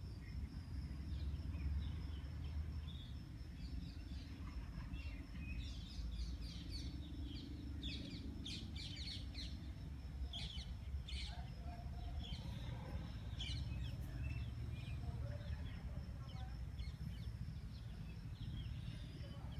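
Birds chirping outdoors in many short, quick high calls, thickest from about five seconds to fifteen seconds in, over a low steady rumble.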